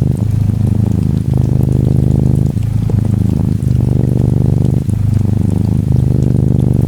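An orange tabby Norwegian Forest Cat kitten purring steadily, the purr changing with each breath about every second and a bit, over gentle rain.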